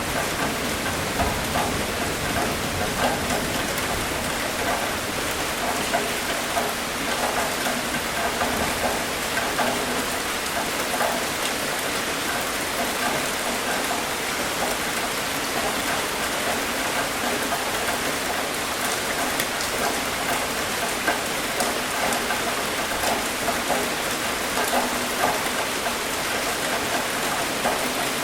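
Steady rain falling, an even wash with many individual raindrop hits on a surface.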